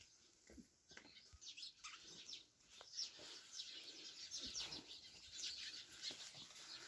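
Faint chirping of small birds: many short, quick calls that grow busier about halfway through.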